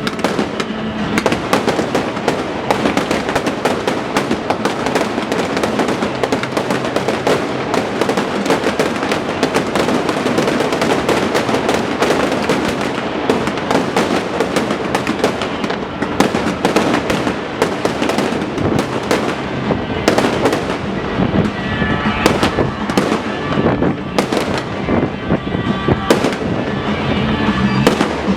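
Fireworks display going off continuously: dense, rapid bangs and crackling bursts, with music playing along underneath that comes through more clearly in the second half.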